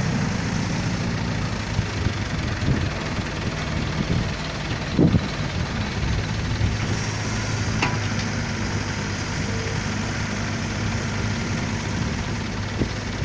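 Heavy diesel engines of an excavator and dump truck running steadily while sand is dug and loaded, with scattered knocks and one heavy thump about five seconds in.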